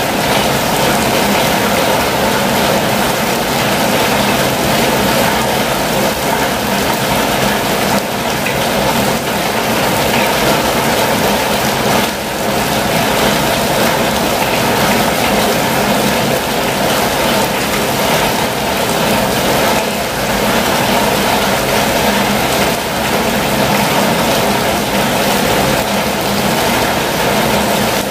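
Steady rain falling on a campervan's roof and windows, heard from inside the van, with a steady low rumble beneath it.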